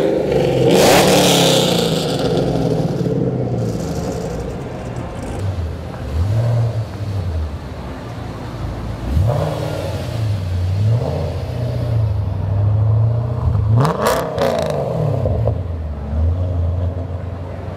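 Car engine revving in several separate blips, its pitch rising and falling each time between stretches of idle, with the loudest revs near the start and about fourteen seconds in.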